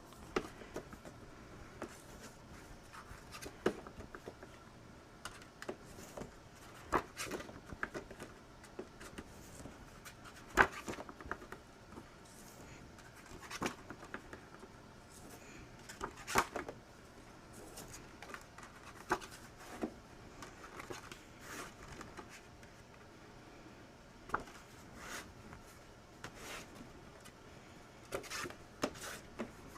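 Paper craft materials being handled on a work table: irregular light taps, clicks and paper rustles as paper pieces are positioned and pressed down. The sharpest tap comes about ten seconds in.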